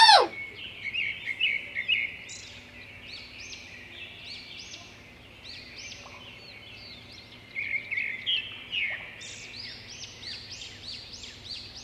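Birds chirping: quick, high, repeated chirps and trills, louder about eight seconds in.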